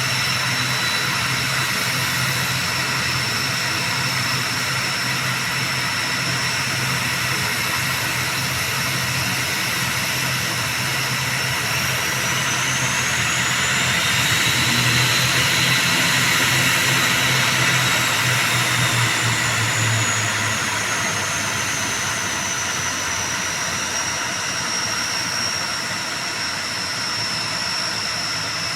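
ATR 72-600's Pratt & Whitney PW127M turboprop engines running with a steady high whine and low hum. Partway through, the whine rises in pitch and the sound grows louder, then the pitch slowly eases back down.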